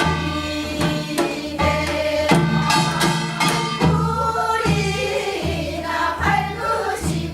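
Korean gyeongseodo sori folk song being sung, the voices sliding between held tones over a steady low note, with sharp drum strokes that fall irregularly through the song.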